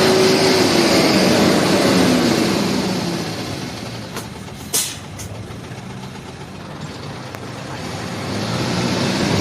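Truck's diesel engine, running on biodiesel made from used cooking oil, revved and held high, then dropping back to a lower run after about two seconds, with the revs rising again near the end. A single sharp click a little before halfway.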